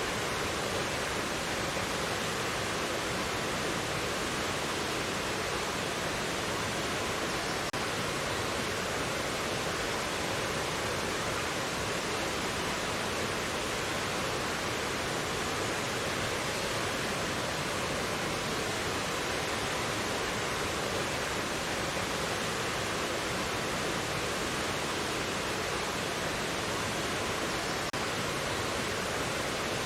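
Mountain valley stream rushing steadily over rocks, a constant even wash of water noise.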